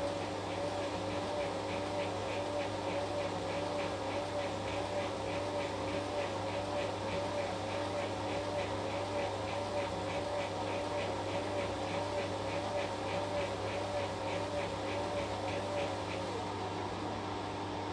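Washing machine's drum motor running mid-wash: a steady whine that wavers regularly, over a low hum and faint regular ticking. About 16 seconds in, the whine falls in pitch and stops as the drum winds down.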